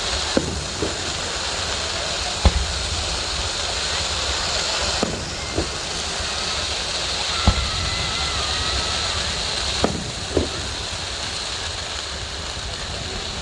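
Fireworks bursting overhead: about eight separate bangs at uneven gaps, over a steady hiss of background noise with crowd voices.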